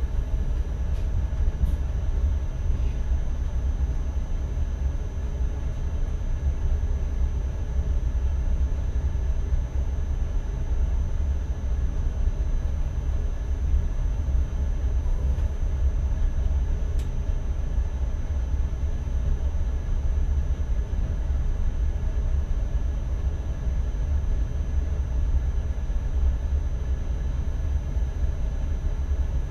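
Steady low rumble of an NS ICM electric multiple unit running along the track, heard from inside the driver's cab, with a faint steady high whine.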